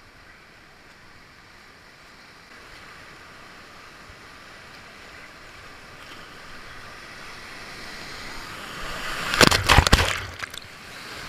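Whitewater rapid rushing, its noise growing steadily louder, then a burst of loud splashing water for about a second near the end as the kayak runs into the waves.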